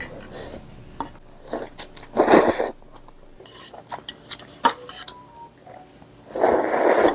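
Cutlery clicking and scraping against a dish while eating soup pasta, with two longer, louder noisy bursts about two seconds in and near the end.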